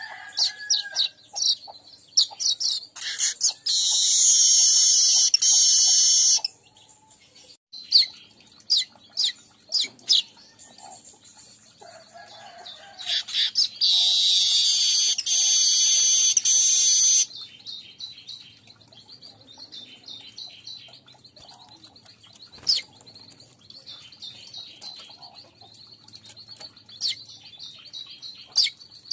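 Streaked weaver song: rapid sharp chips building into a long, loud buzzing sizzle, repeated twice, each sizzle lasting about three seconds, with scattered chips between and after.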